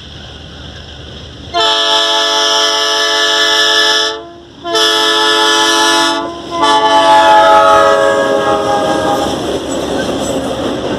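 Freight locomotive's multi-note air horn sounded in three long blasts, the third sliding lower in pitch, followed by the rumble and clatter of the train rolling past.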